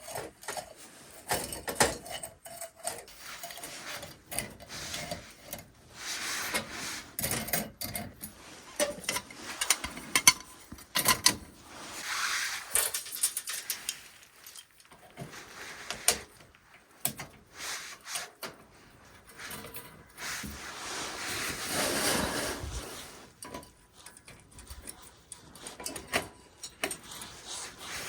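Assorted handling noises: irregular clicks and knocks with stretches of rustling and scraping.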